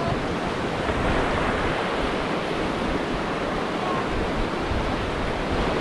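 Steady rush of river water around a raft in whitewater, an even wash of noise with no distinct splashes.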